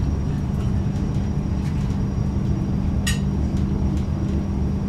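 Steady low rumble of a Frecciarossa 1000 high-speed train running, heard inside the passenger car, with a constant hum under it. A single short clink comes about three seconds in.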